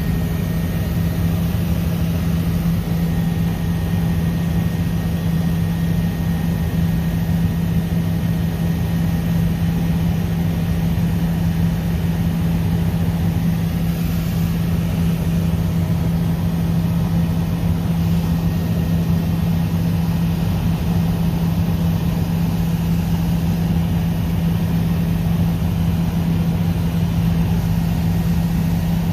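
Helicopter in flight: a steady drone of engine and rotors, with one strong low hum held at one pitch over a constant rushing noise.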